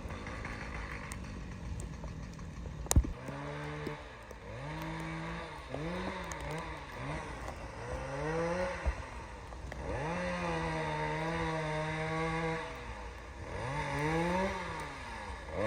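A small engine revving up and down over and over, held at a steady pitch for about two seconds near the middle. It starts about three seconds in, after a stretch of wind-like noise.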